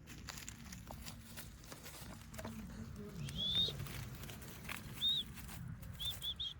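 Short, high-pitched animal chirps: one rising chirp about three seconds in, another about five seconds in, then three quick ones near the end, over soft scattered patter.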